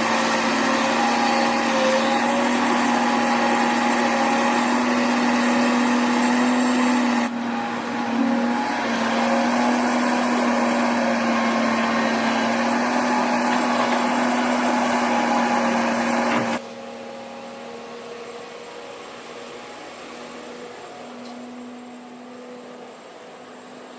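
The engine of a piece of heavy earth-moving machinery running steadily with a whining tone. There is a short break about seven seconds in, and about two-thirds of the way through the sound drops sharply and stays quieter.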